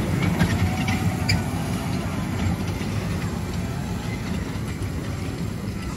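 Train running along its track: a steady low rumble with a few sharp clicks in the first second and a half, slowly getting quieter.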